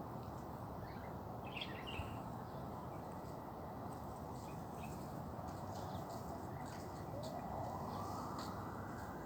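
Small birds chirping in scattered short calls over a steady low background rumble, with a faint tone rising in pitch over the last couple of seconds.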